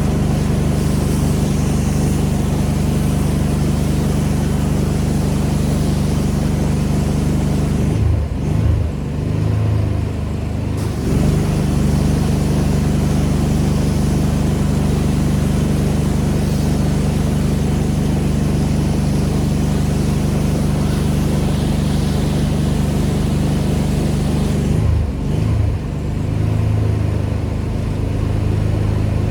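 Engine-driven pressure washer running steadily, its engine hum under the hiss of the high-pressure spray. Twice, about 8 seconds in and again about 25 seconds in, the engine note drops and the hiss weakens as the spray pauses; the first time the engine comes back up about 3 seconds later.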